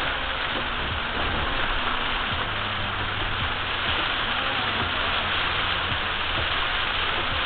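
Heavy rain on a car driving through a storm, heard from inside the car: a steady rush of rain with a low road and engine hum beneath.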